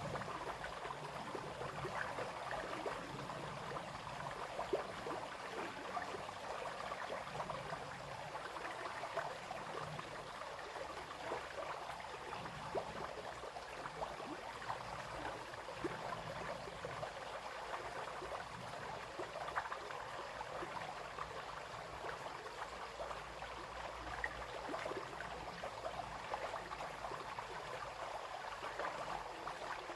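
A small brook running and splashing steadily, a continuous babble of water with many small splashes and no other sound.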